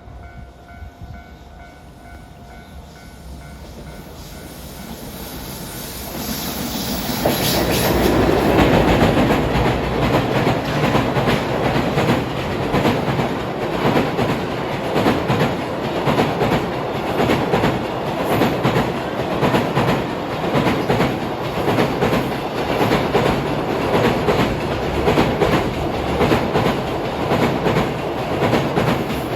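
Train approaching and passing close by, building up about six seconds in to a steady rumble of wheels with a regular clickety-clack over the rail joints that carries on as the cars roll past.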